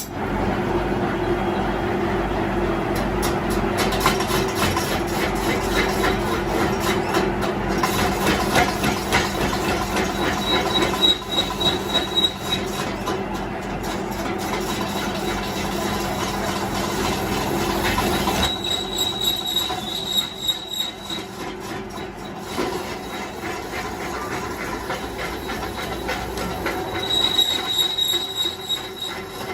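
A power tool working steel, probably on the rim, makes a steady grinding noise with a metallic squeal. A thin high whine comes and goes about a third of the way in and again near the end.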